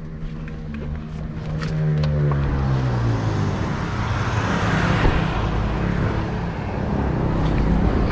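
A motor vehicle driving past, its engine note gliding down over the first few seconds while the noise of tyres on the road builds and stays loud.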